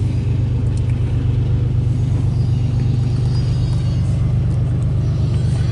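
Steady low rumble of an intermodal freight train's container well cars rolling past, heard from inside a car's cabin.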